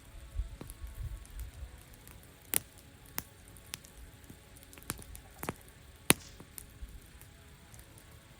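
Wood campfire crackling, with scattered sharp pops, the loudest about six seconds in. A low rumble sits under the first couple of seconds.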